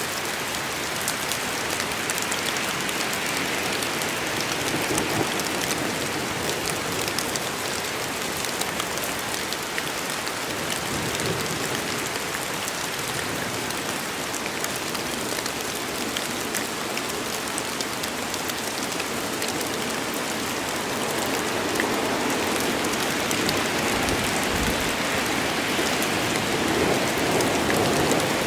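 Steady rain from a rainstorm in a forest: a dense, even hiss of falling rain with many small sharp drop ticks, growing a little louder near the end.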